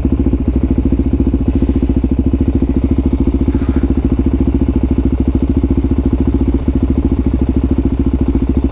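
Suzuki DR-Z400SM's single-cylinder four-stroke engine idling steadily, close to the microphone, with an even, rapid pulse.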